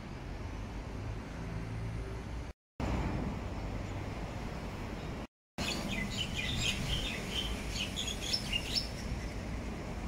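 Small birds chirping in quick, short, high notes for about three seconds past the middle, over a steady low background rumble. The sound cuts out briefly twice, a little before and a little after the midpoint.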